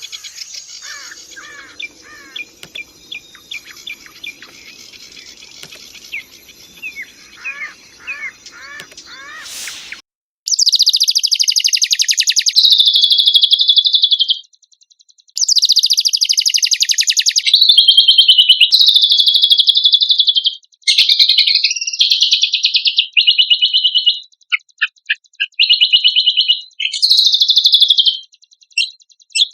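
Cucak kombok songbird singing. At first come faint chirps over a low hum. About ten seconds in, loud, rapid, buzzy trilled phrases begin, each a few seconds long with short pauses between them.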